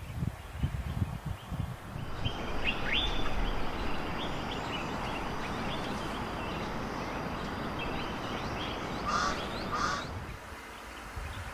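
Birds calling: many short high chirps, then two louder harsh calls in quick succession near the end. Wind rumbles on the microphone at the start.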